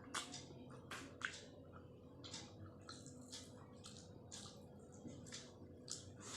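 Someone eating Maggi instant noodles: faint wet chewing sounds, in short bursts about one or two a second.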